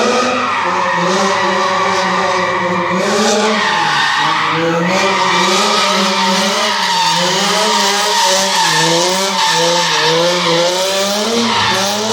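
Nissan 350Z's V6 engine held at high revs while drifting, its pitch wavering up and down with throttle, over steady tyre screech. The revs dip about four seconds in, then bounce rapidly in the second half.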